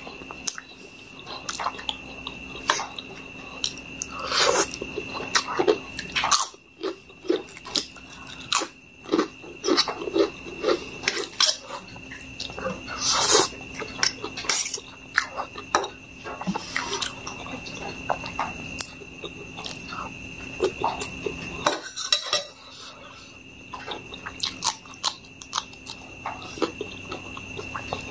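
Close-miked eating: chewing Maggi noodles and fried egg and crunching ridged potato chips, with a fork clinking and scraping on a steel plate. The sounds come as irregular short crackles and clicks.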